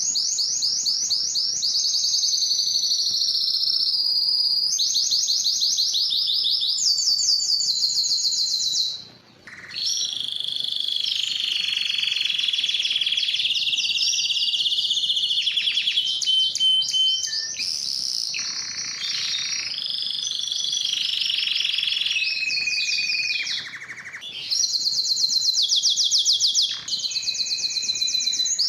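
Spanish timbrado canary singing a long song of rapid trills and rolls, one phrase giving way to the next every few seconds, with a brief break about nine seconds in.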